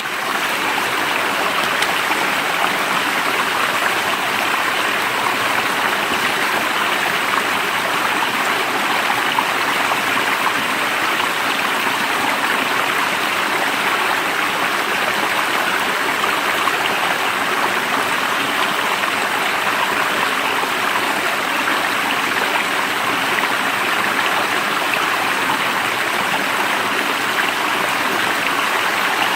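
Stream water flowing steadily, a constant even rush of running water.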